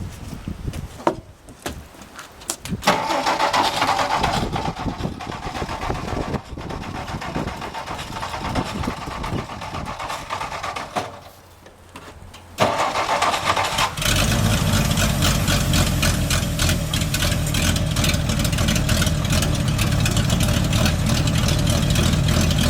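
A 1962 Ford F-350 truck engine being cranked on the starter in two long tries, then catching about fourteen seconds in and running steadily. The engine now draws fuel from its tank.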